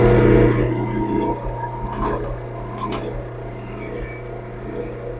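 Drill press motor running with a steady hum, louder for about the first second and then settling, with a couple of light ticks around the middle.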